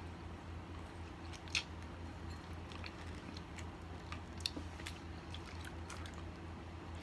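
Faint chewing of a lemon slice: scattered small wet clicks and smacks of the mouth over a steady low hum.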